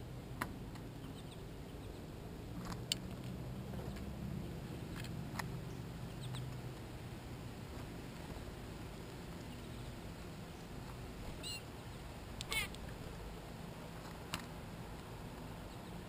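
Small birds feeding at a clear plastic window feeder: scattered sharp taps and clicks of beaks on the feeder and sunflower seeds, with two short chirps about eleven and twelve and a half seconds in.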